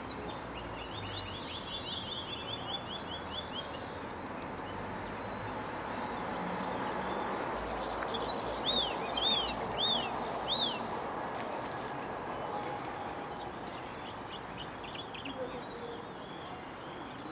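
Bird chirps over a steady background noise. A rapid trill of short notes comes near the start, four separate arched chirps about halfway through, and fainter chirps near the end.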